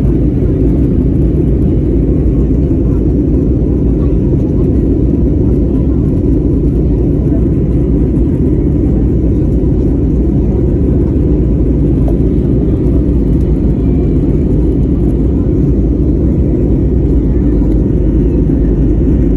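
Steady, loud low rumble of an airliner's jet engines and rushing air during takeoff.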